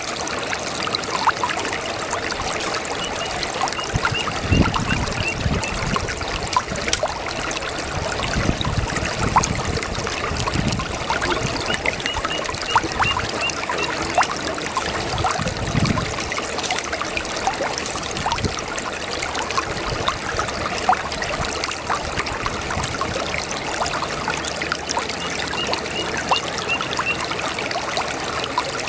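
A babbling brook: water trickling and gurgling steadily, with many small splashes and some deeper gurgles in the first half. A short run of faint high chirps comes in three times.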